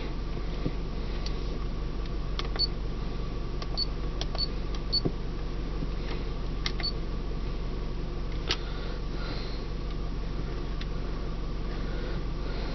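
Dashboard stereo and control buttons in a 1997 Honda Accord being pressed, giving scattered sharp clicks and a few short high beeps over a steady low hum in the car's cabin.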